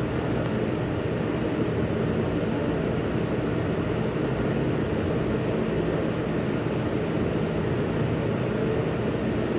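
NYC subway train running along the elevated tracks: a steady noise with a faint low hum and no breaks.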